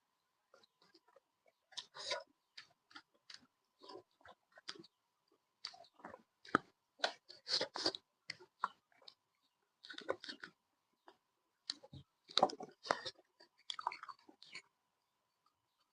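Close-up chewing of pork meat: irregular wet smacks and crunches in quick clusters, with short pauses between mouthfuls.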